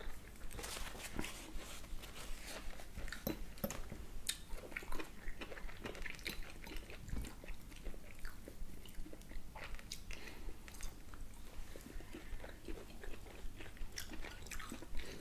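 Close-up chewing and biting of grilled beef steak, wet mouth sounds in an irregular run, with small clicks of a fork and steak knife against plates.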